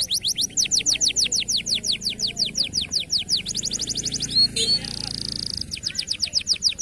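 Domestic canary singing a long, rapid song: series of high, down-sweeping notes at about six a second, a faster run near the middle, and a brief buzzy trill.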